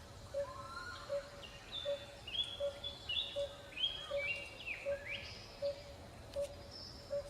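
Forest ambience of birds chirping in short rising and falling calls, busiest in the middle. Underneath, a short low note repeats evenly about every three-quarters of a second.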